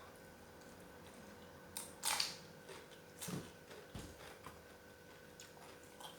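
Faint eating sounds: chewing and small handling noises of food and utensils, with a few short rustles and knocks over a low steady hum.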